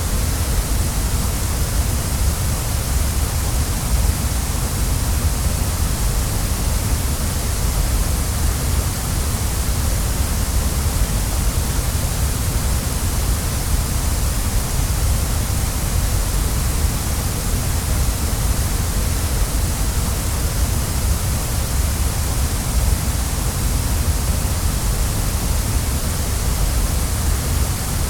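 Waterfall: steady rushing of falling water, an unbroken hiss over a deep rumble that never changes.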